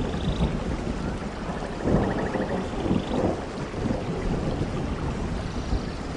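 Steady rain falling, with rumbling thunder that swells loudest about two seconds in and again around three seconds.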